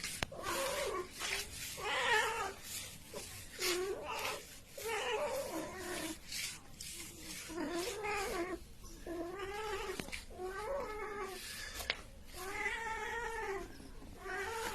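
A cat yowling over and over: about nine long calls, one every second or two, each rising and then falling in pitch.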